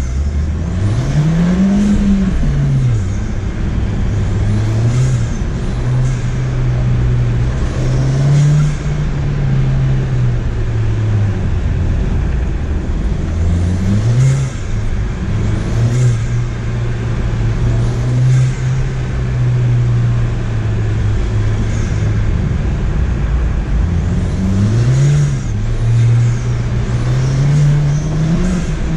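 Ford Fiesta ST's turbocharged engine being driven hard, its pitch climbing and dropping again every few seconds with throttle and gear changes.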